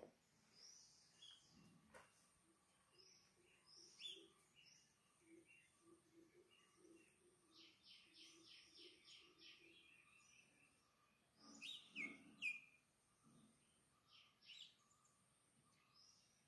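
Faint bird calls and chirps: scattered short high notes, a quick run of repeated notes a little past the middle, and a few louder, falling calls about three-quarters of the way through.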